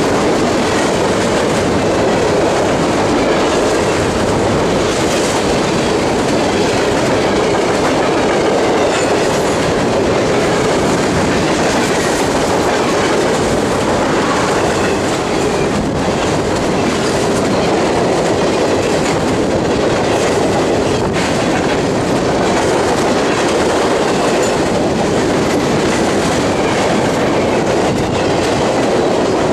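Freight train of container-laden flatcars rolling steadily past: the continuous sound of steel wheels on the rails, with light clicks of wheels passing over rail joints.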